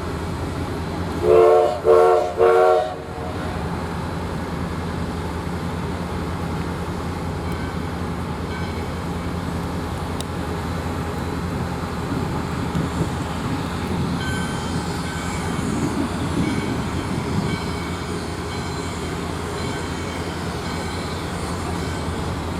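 Steam whistle of 4-6-2 Pacific locomotive #148 sounding three short blasts, the standard signal for a train about to back up, followed by the steady low rumble of the train moving.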